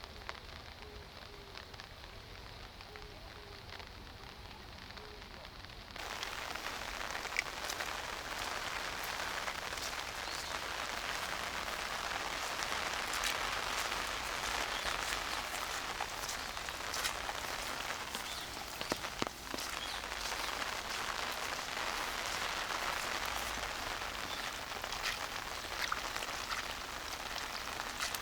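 Steady rain falling, with many close drops pattering. About six seconds in, it abruptly becomes louder and brighter.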